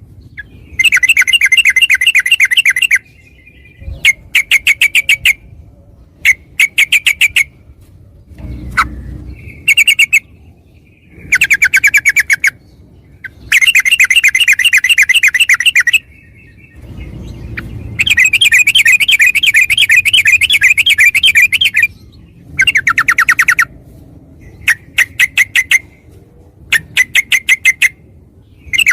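Yellow-vented bulbul (trucukan) song: loud bouts of rapid, evenly repeated notes, about ten a second, each bout lasting one to four seconds with short pauses between, the longest near the end.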